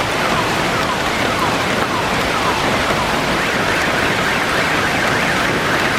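Heavy rain with hail pouring down in a loud, steady hiss. Over it a car alarm sounds as a falling tone repeated about twice a second, turning into a steadier high tone about halfway through.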